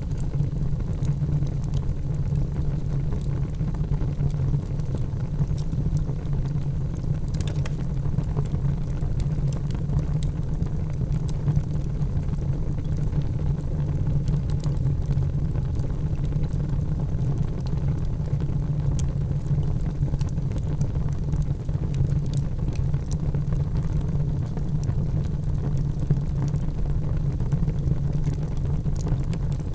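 Wood fire burning in a fireplace: a steady low rumble with scattered crackles and pops, one sharper crack about seven seconds in.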